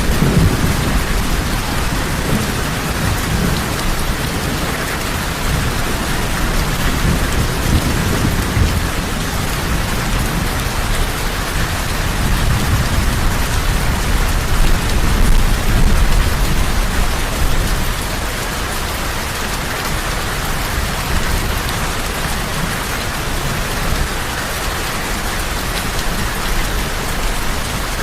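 Heavy rain falling steadily, with low rolling rumbles of thunder near the start and again about halfway through.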